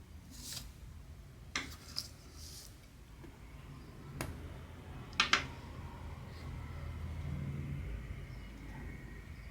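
Cross-stitching by hand: thread swishing through the fabric and a few small sharp clicks, the loudest a quick double click about five seconds in.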